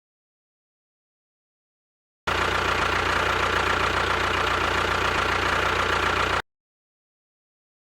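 Engine running steadily at a constant pitch, starting suddenly about two seconds in and cutting off abruptly about four seconds later.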